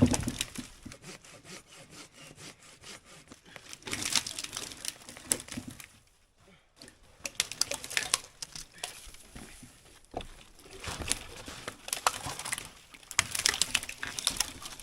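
Dry dead pine branches being broken off by hand, in irregular bouts of cracking and splintering wood with rustling of the dry needles.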